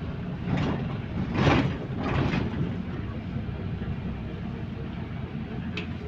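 Inside a moving bus: steady low rumble of the engine and running gear, with three short rushes of noise in the first two and a half seconds, the middle one the loudest, and a sharp click near the end.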